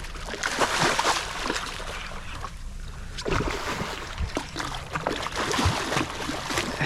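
Water splashing and sloshing, with many short irregular splashes.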